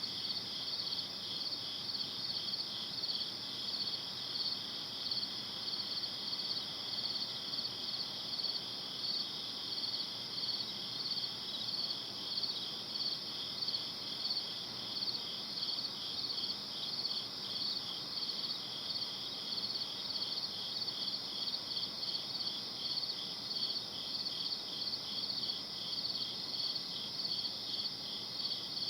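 Crickets chirping in a steady, even pulsing chorus, with two layers at slightly different pitches, over a faint hiss.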